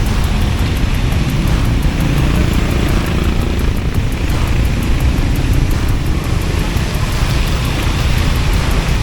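Steady wind buffeting and road noise on a moving scooter, heaviest in the low end.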